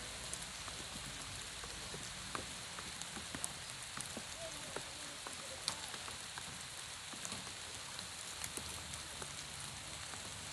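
Steady rain falling on water and grass: an even hiss with scattered small ticks of drops.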